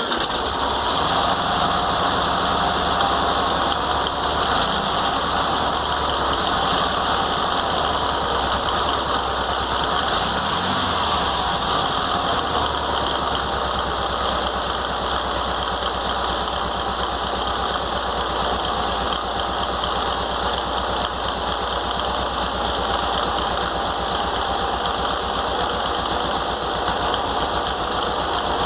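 Volkswagen Beetle's air-cooled flat-four engine just started and running steadily; the engine note shifts around ten seconds in, then holds steady.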